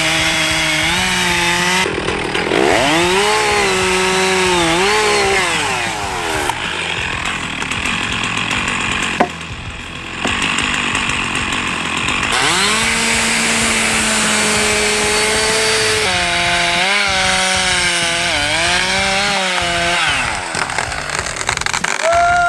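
A petrol chainsaw running hard through wood, its engine pitch rising and sagging as the chain loads up in the cut. Partway through it drops away briefly with a sharp click, then revs up again and settles into a steady high run.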